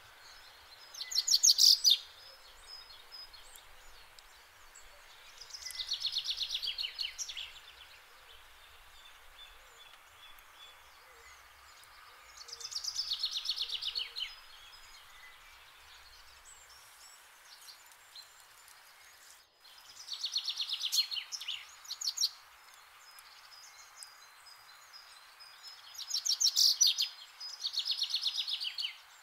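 A songbird singing a repeated song: short phrases of rapid, high chattering notes, each a second or two long, coming every few seconds over a faint steady outdoor hiss.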